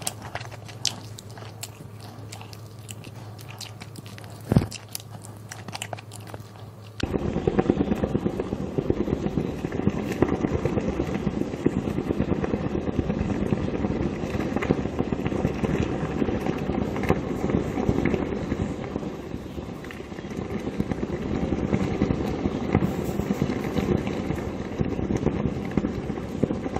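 Chewing and biting sounds with scattered clicks and one sharp knock about four and a half seconds in. Then, about seven seconds in, heavy rain takes over: a dense, steady crackling downpour that sounds like fireworks popping.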